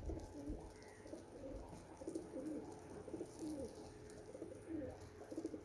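Domestic pigeons cooing: low, wavering coos repeating one after another, moderately faint.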